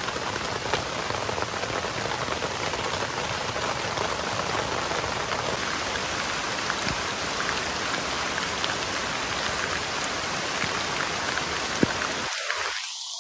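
Heavy rain pouring steadily, with scattered sharper drop taps standing out from the hiss and one louder tap about twelve seconds in.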